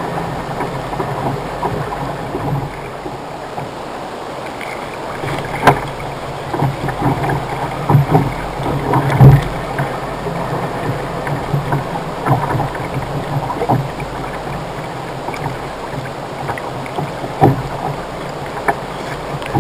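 Water lapping and sloshing against the hull of an anchored kayak in a strong tidal current, with a few short knocks on the hull.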